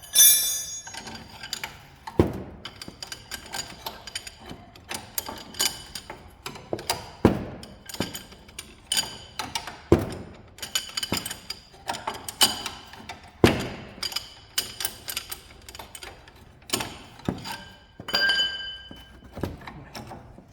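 Hand tools clinking and knocking against metal suspension parts: irregular metallic clinks, many with a short high ring, and a few heavier knocks spread through.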